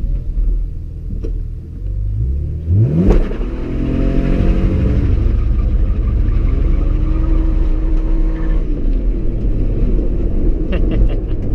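BMW E46 engine with an aftermarket side-exit exhaust, revved sharply about three seconds in as the car is pulled away hard, then running on under acceleration with the pitch falling back through the gears.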